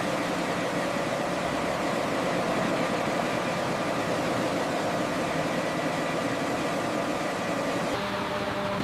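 Heavy machinery running steadily: a constant mechanical drone with a faint steady whine in it. Its tone shifts slightly near the end.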